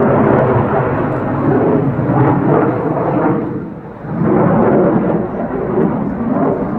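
CF-18 Hornet's twin F404 jet engines roaring loudly in a low rumble through the display. The roar dips briefly about four seconds in, then surges back.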